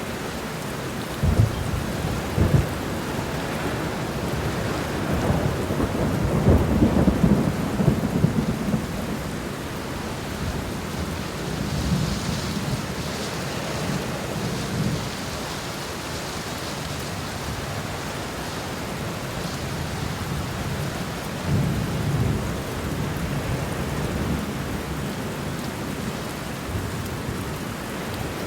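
Steady rain falling, with low thunder: two sharp low claps near the start, a longer rumble a few seconds later, and another rumble about three quarters of the way through.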